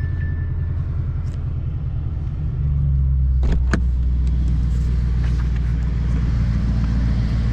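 Mercedes-AMG E63 S's twin-turbo V8 idling steadily on a cold start. About two and a half seconds in the note deepens and gets louder, and two sharp clicks follow a second later.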